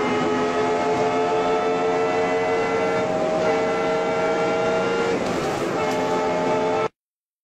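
BMW M5 E60's 5.0-litre V10 pulling hard at high revs, heard from inside the cabin: a loud, high-pitched engine note that climbs slowly, breaks briefly about three seconds in and again about five seconds in, and cuts off suddenly near the end.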